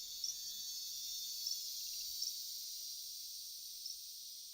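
Rainforest insect chorus: a steady high hiss of calling insects, with a few short high chirps over it, fading slightly toward the end.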